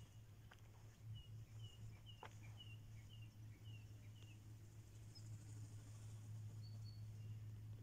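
Faint bird calls: a run of short, high chirps repeated about twice a second for a few seconds, then a couple of higher notes, over a low steady hum.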